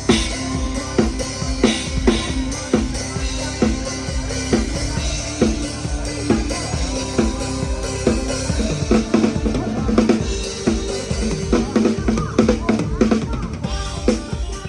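A live band playing, with a PDP drum kit to the fore: kick, snare and rimshot hits keep a steady beat over the band's pitched instruments. Recorded close to the kit on a phone.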